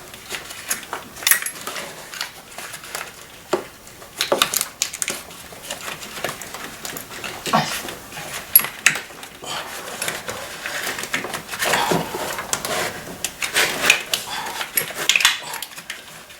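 Irregular clinks, clicks and rattles of hand tools and metal parts, with a few short falling squeaks, as ignition coils and engine parts are removed to get at the spark plugs.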